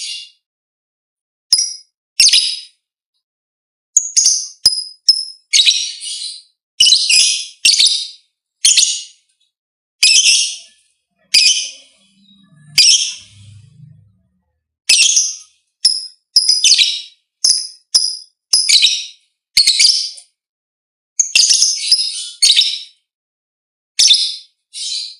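A bird giving short, high-pitched chirps over and over, about one a second but irregularly, some coming in quick pairs or triplets.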